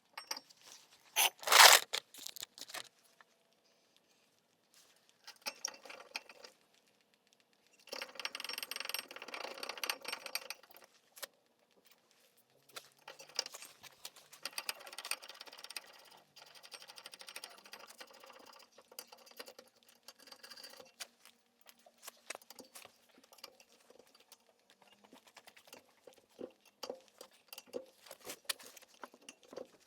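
Metal parts and hand tools being handled during brake caliper work: scattered clinks and clicks, a sharp knock about a second and a half in, and several stretches of scraping and rubbing lasting a few seconds each.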